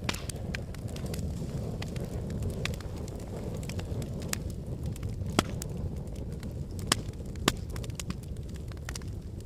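Logs burning in a fireplace: a steady low rumble of flames with frequent sharp crackles and pops, three louder pops in the second half.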